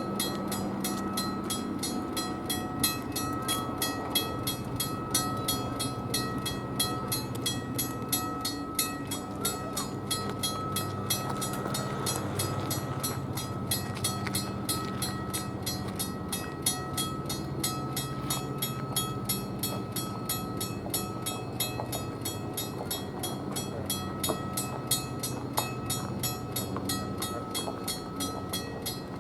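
US&S teardrop mechanical railroad crossing bell ringing with rapid, evenly spaced strikes throughout, with a train's low engine rumble underneath.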